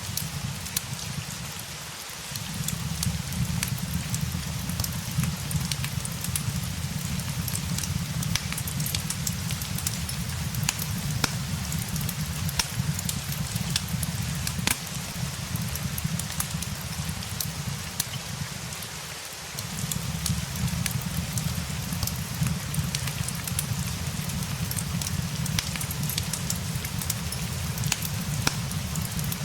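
Steady rain mixed with a crackling wood fire: a continuous hiss full of small sharp pops and clicks, over a low rumble that briefly fades out twice.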